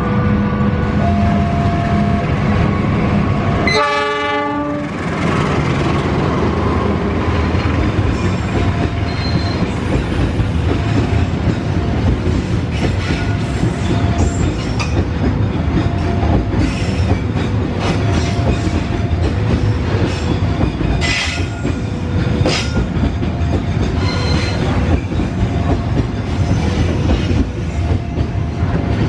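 Diesel-electric locomotive hauling a long freight train of tarpaulin-covered flat wagons past at close range: a steady rumble with wheels clattering over the rail joints. A short horn blast sounds about four seconds in.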